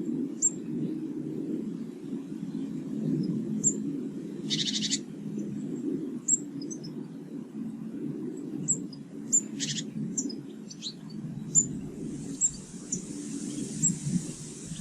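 Small garden birds calling: scattered short, high chirps, with two harsh, buzzy calls, one about a third of the way in and one about two thirds of the way in. A steady low rumble runs underneath.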